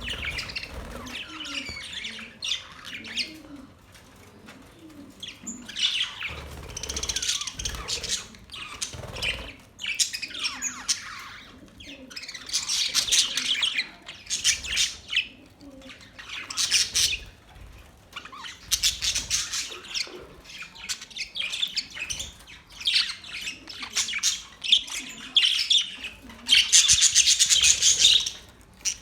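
Australian parrots chirping and squawking in repeated bouts of a second or two, with the loudest spell near the end.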